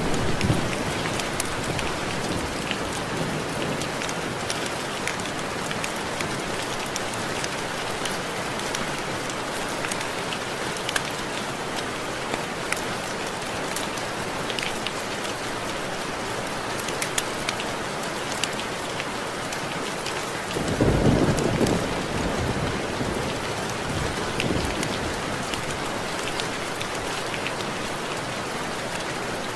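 Steady rain with many sharp, distinct drop ticks, the sound of raindrops hitting window glass. A brief low rumble rises out of it about two-thirds of the way through.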